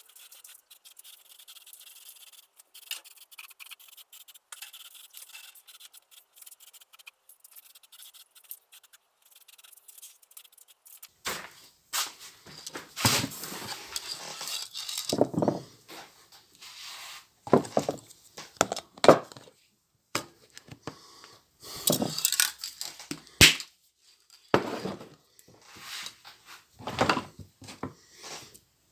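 Irregular knocks, scrapes and rubs of tools and parts being handled during car repair work, starting about eleven seconds in after a faint hiss.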